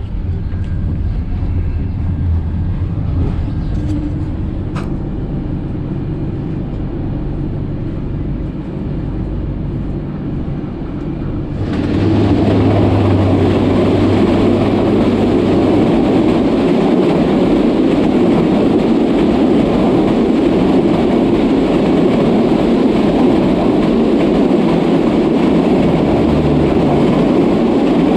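SPT1 passenger train running on the rails with a steady rumble and a low hum. About twelve seconds in, the running noise jumps suddenly to a much louder, dense rush and stays there.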